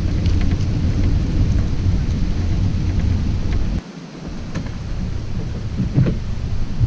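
Wind buffeting the microphone as a low rumble, dropping away suddenly about four seconds in, followed by a few light knocks.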